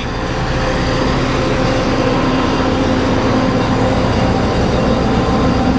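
Road-work machinery's engine running steadily and loudly, a constant drone with a steady hum.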